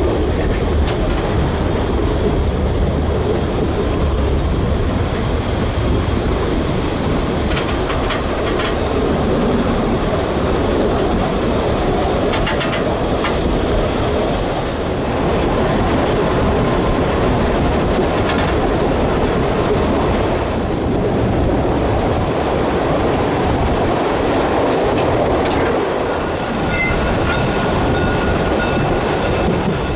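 750 mm narrow-gauge steam train running, heard from a passenger carriage: a steady rumble of wheels on the rails with occasional clicks over the rail joints. Near the end a faint high-pitched ringing tone joins in.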